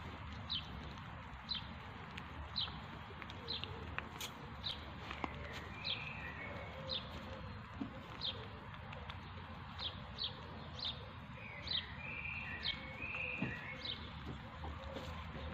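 A small bird chirping over and over: a short, high, falling chirp about once a second, with a few longer calls in the middle and again near the end.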